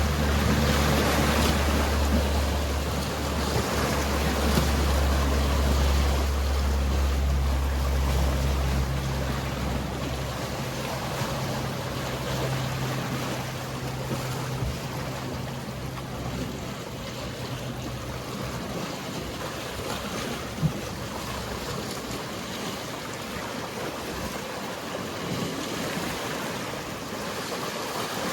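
Sea waves washing steadily, under the low, steady drone of a boat engine that fades out about a third of the way through, with a fainter engine tone lingering a few seconds longer. A single sharp click comes past the middle.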